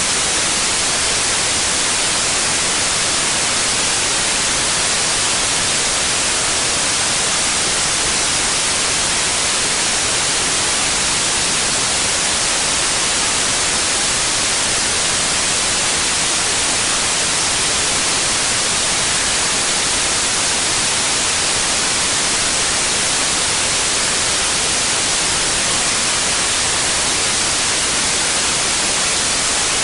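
Steady, unchanging white noise: an even hiss, brightest in the treble, with no events or variation.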